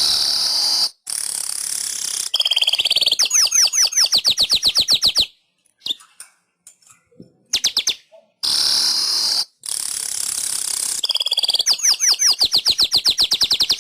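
Manyar weaver song: a wheezy, hissing buzz followed by a fast run of clear repeated high notes, about nine a second. The phrase plays twice, each cutting off abruptly.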